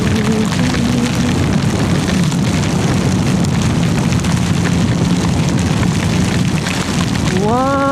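Heavy wind rumble buffeting the microphone on a moving motorcycle, with the engine's steady hum underneath; a pitched tone rises near the end.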